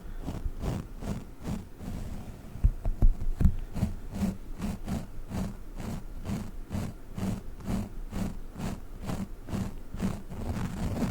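Globbles, sticky jelly toy balls, squished and handled against the microphone in a quick, even rhythm of about three squishes a second, with a few louder knocks about three seconds in.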